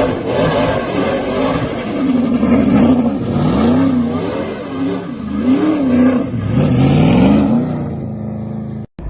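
ASA race car engine under hard driving, its revs rising and falling again and again, then holding a steadier lower note before cutting off suddenly near the end.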